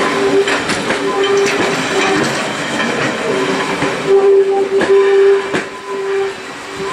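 Heritage railway passenger coaches rolling past and away along the track, with the wheels clicking over the rails. A steady squealing tone comes and goes and is loudest about four to five seconds in.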